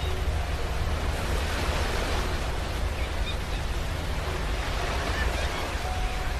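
Ocean waves washing onto a beach: a steady hiss of surf over a deep, continuous rumble.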